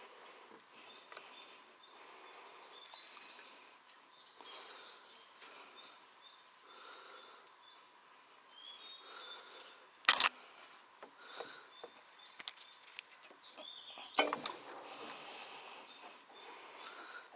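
Quiet outdoor ambience with birds chirping, broken by two sharp knocks about ten and fourteen seconds in.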